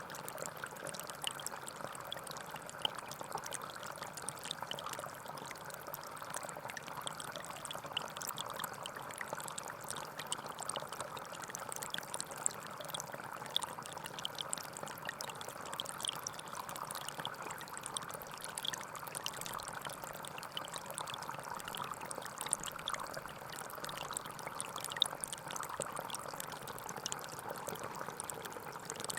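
Gentle forest stream flowing steadily, a continuous babble of running water with many small splashes and trickles.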